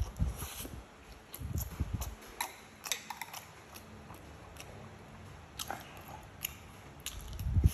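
Close-up eating sounds: chewing and biting into fried egg and rice, with soft low thuds from bites and scattered sharp wet clicks.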